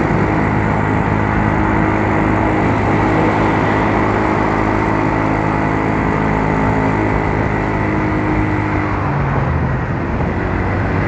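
Yamaha Mio Soul scooter's single-cylinder engine running steadily under way, over road and wind noise; about nine seconds in its pitch drops as it slows.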